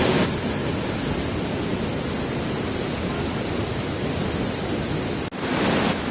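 Steady rushing noise of a large waterfall running high after heavy rain. It drops out briefly about five seconds in and comes back a little louder.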